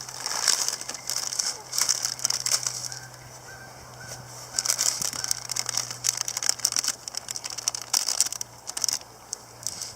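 Geese honking, mixed with repeated crackling and rustling noises close by.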